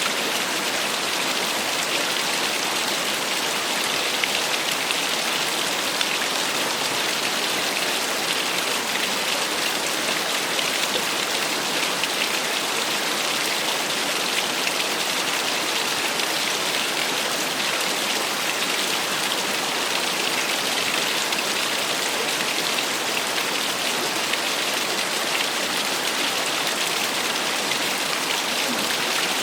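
Small waterfall splashing steadily: a constant, even hiss of falling water, bright and with little deep rumble.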